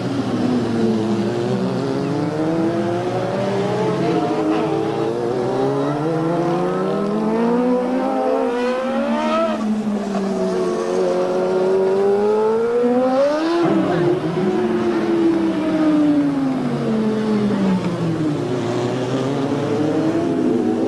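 Several superbike racing motorcycles racing past at speed, their engine notes rising and falling as they accelerate, shift and go by. Two pass closest, about nine and thirteen seconds in.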